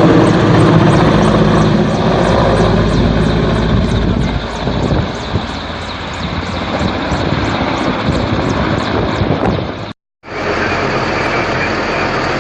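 Aircraft engine running loud and steady, with a faint regular ticking on top, about three a second. About ten seconds in it cuts off abruptly and gives way to a steadier, quieter engine hum.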